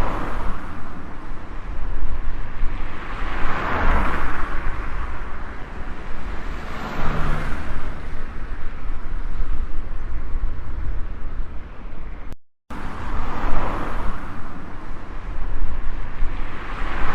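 Road traffic: vehicles passing one after another over a steady low rumble, each pass swelling and fading over a couple of seconds. A brief cut comes about two-thirds of the way through.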